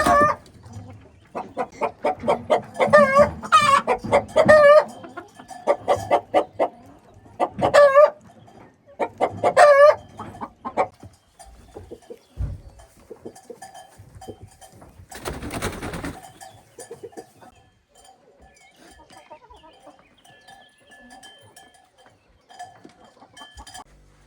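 Chickens clucking loudly in a run of repeated calls over the first ten seconds or so, then going quieter. A short rushing noise comes about fifteen seconds in.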